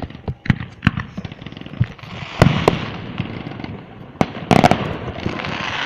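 Fireworks going off close by: a run of sharp bangs and pops over a crackling hiss, loudest about two and a half seconds in and again in a dense cluster about four and a half seconds in.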